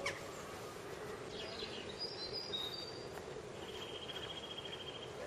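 Small birds giving a few short high chirps, then a rapid, even trill lasting about a second, over steady outdoor background noise.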